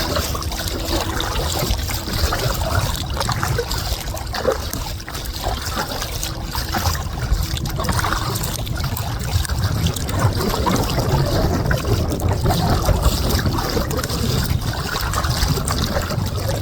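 Kayak paddle strokes: water splashing and trickling off the paddle blades as the kayak is paddled through small waves, over a steady low rumble.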